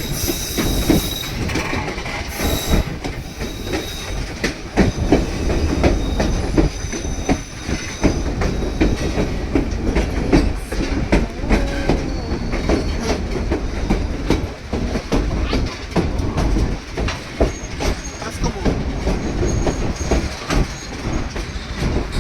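Narrow-gauge White Pass & Yukon Route passenger train running steadily, its wheels clacking over the rail joints, with faint high wheel squeal at times.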